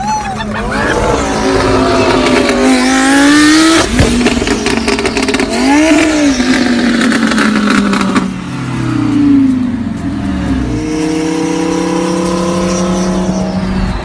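A car engine with a loud aftermarket exhaust revving hard, its pitch climbing and dropping several times, with a rapid crackle of pops in the middle, then pulling away and rising through the revs again toward the end.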